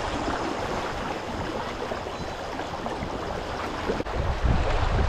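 Kenai River current rushing past the bank, a steady wash of moving water. Near the end, wind buffets the microphone in low gusts.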